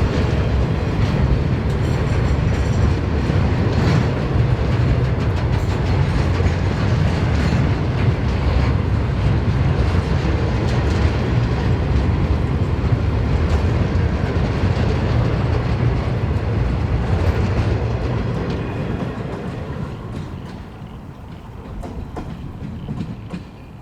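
A long freight train's wagons rolling past, a loud, steady rumble of steel wheels on the rails that fades away from about 18 seconds in.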